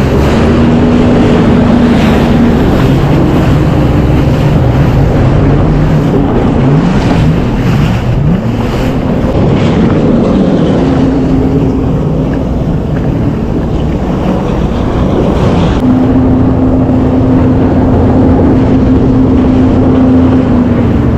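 Jet ski engine running at speed, its pitch sliding up and down several times in the middle and then holding steady, under heavy rushing wind and water noise on the microphone. The sound cuts off suddenly at the end.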